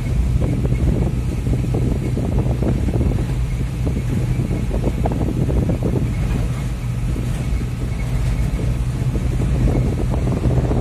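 Diesel engine of a UD Trucks Nissan Quester running steadily with a constant low hum as the truck drives loaded with concrete poles, mixed with road and wind noise.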